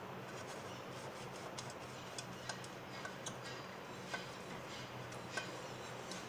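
Pastry brush greasing the inside of a metal cake tin with oil: faint, irregular light ticks and clicks as the brush touches the tin, a few each second, over a low steady hum.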